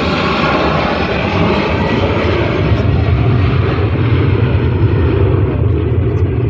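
Airliner's engines heard at close range: a loud, steady rush of engine noise whose higher hiss fades while a deep rumble grows from about two and a half seconds in.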